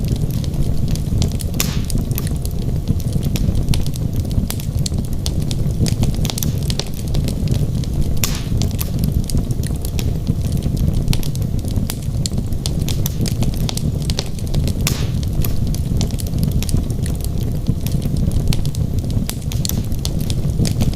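Wood logs burning in a fireplace: a steady low noise of the flames under frequent sharp crackles and pops, with a few louder snaps scattered through.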